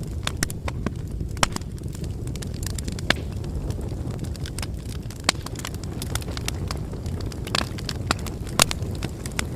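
Wood fire burning, with a steady low rumble and irregular sharp crackles and pops of burning logs.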